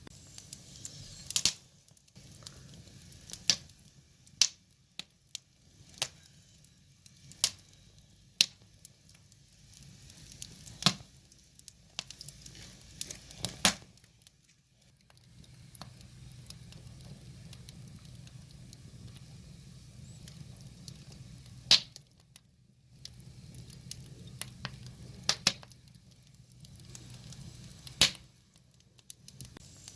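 Wood fire crackling: sharp, irregular pops and snaps from the burning logs, about a dozen loud ones, over a low rushing sound of the flames that swells and fades.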